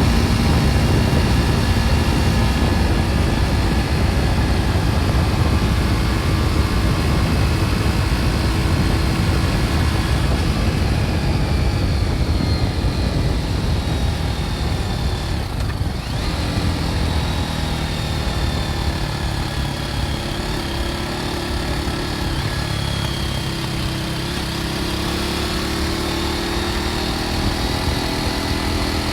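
BMW G310 R's single-cylinder engine through its original exhaust, running under way, its pitch rising and falling several times with throttle and gear changes, over steady wind noise on the microphone.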